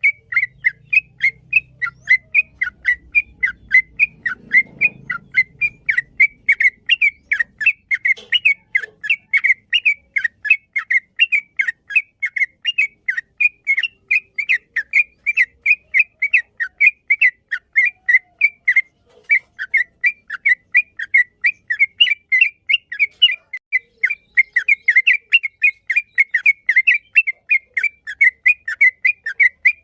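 Yellow-vented bulbul (trucukan) singing a long, unbroken run of short, whistled chirping notes, about three to four a second.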